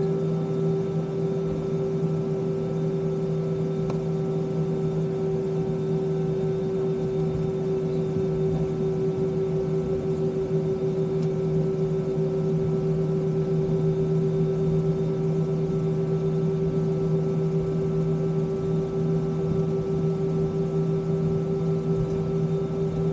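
Steady drone inside an Airbus A320's cabin on the ground, the engines idling, with a constant two-tone hum over a low rumble.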